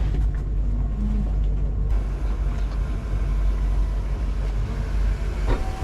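Steady low rumble of a motorboat under way, its engine and hull noise mixed with wind on the microphone.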